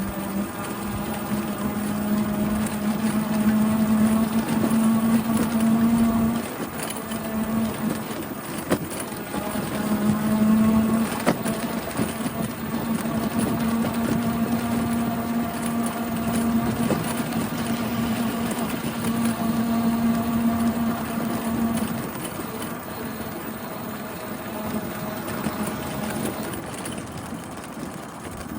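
A bicycle in motion making a steady whining noise, an annoying fault sound that needed upkeep to fix. The whine creeps up in pitch, breaks off about six seconds in, returns around ten seconds in, and stops near the twenty-two-second mark, over the rushing noise of riding.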